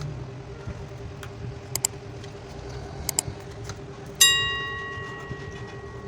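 A few light clicks of tools handling wires, then about four seconds in a metal object strikes a hard metal surface with one loud, bell-like ring that dies away over about two seconds. A faint steady hum runs underneath.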